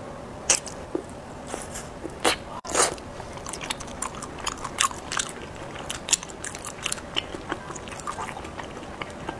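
Close-miked biting and chewing of a chewy blueberry bowl pudding cake (bo zai gao): many short, irregular wet mouth clicks and smacks, with a few louder bites near the start.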